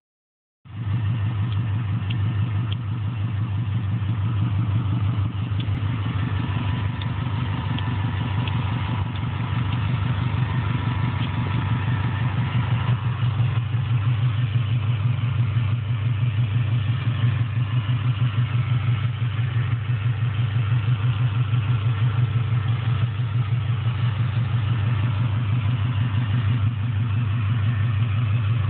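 Subaru WRX's turbocharged EJ20 flat-four engine idling steadily, with a fast even pulse and no revving.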